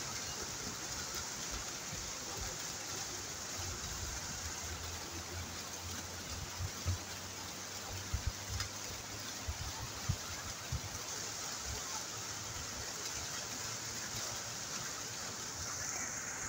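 Waterfall: a steady hiss of falling and flowing water, with a few brief low thumps near the middle.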